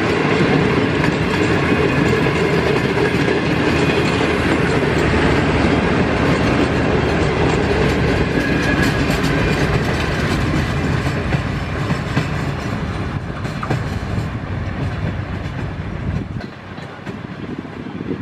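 Passenger train coaches rolling past on the track, the wheels clacking over the rails, then fading away as the last coach goes by and the train draws off.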